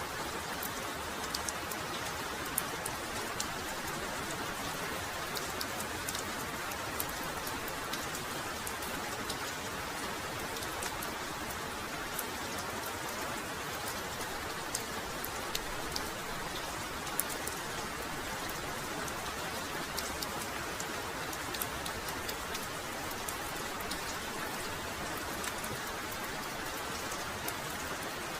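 Heavy rain falling steadily, with many sharp individual drops tapping close by.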